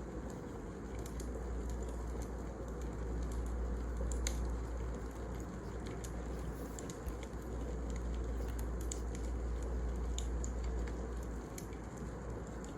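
Wood fire burning: a steady low rumble with scattered, irregular sharp crackles and pops.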